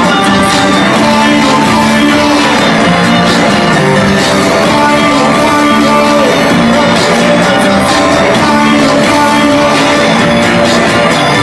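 A live band playing a dance song, loud and steady, amplified through a PA system.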